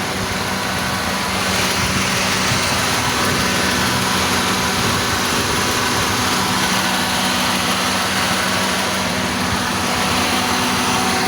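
Acura ZDX's 3.7-litre V6 idling steadily, running again after its damaged head gasket has been replaced. It gets a little louder about a second and a half in.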